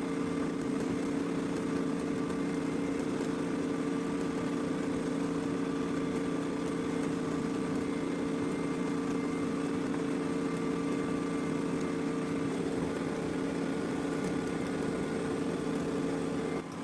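A steady mechanical hum with a constant pitch, like a small motor running, that cuts off abruptly near the end.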